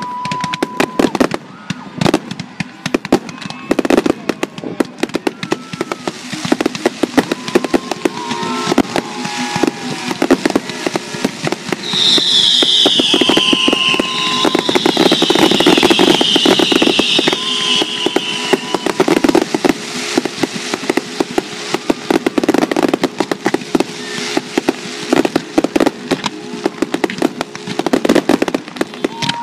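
Fireworks finale: aerial shells bursting in rapid, overlapping bangs with crackle, growing louder and almost continuous about twelve seconds in.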